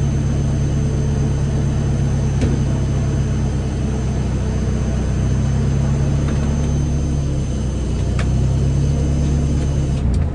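Mazda RX-7 FD's bridgeported turbo rotary engine idling steadily, heard from inside the cabin. Two faint clicks sound over it.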